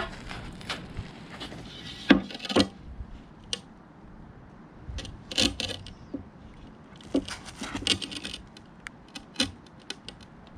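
Scattered light clicks, taps and short scrapes of hand work on paving: tools and a slab being handled while a cut line is marked. A couple of sharper knocks stand out about two seconds in and again midway, with a longer scraping stretch near the end.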